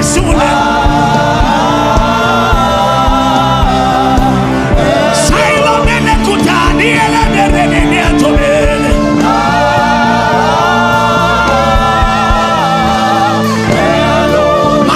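Gospel song: several voices singing together in harmony over instrumental backing with a steady beat.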